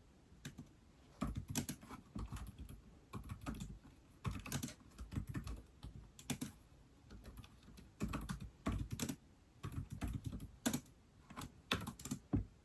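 Typing on an iPad keyboard: runs of quick keystrokes in irregular bursts with short pauses between them, starting about a second in.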